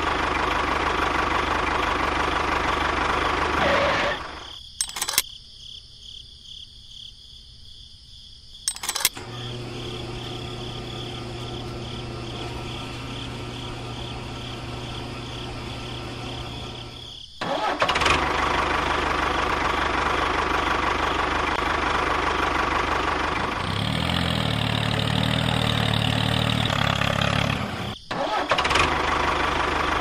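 Small motors running steadily, stopping abruptly a few seconds in. A quieter steady hum follows with a couple of clicks, then the louder motor noise starts again.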